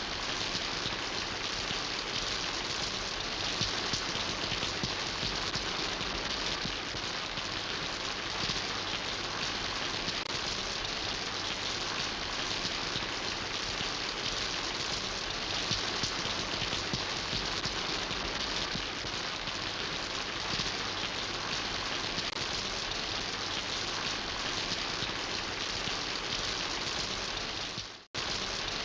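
Steady rain falling, an even hiss of many drops, which cuts out for an instant near the end and then resumes.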